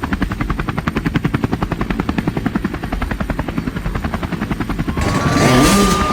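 Helicopter rotor chopping in a steady, fast beat of about eight pulses a second. About five seconds in it gives way to the start of a hip-hop beat with a long held tone.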